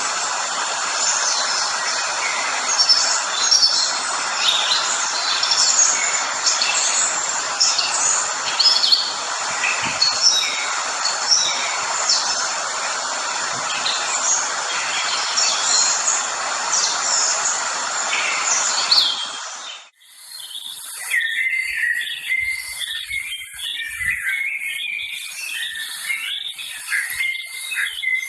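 Many birds chirping and calling over a steady rushing noise. About two-thirds of the way through, the sound cuts to a different recording of busy, repeated chirping from birds or insects.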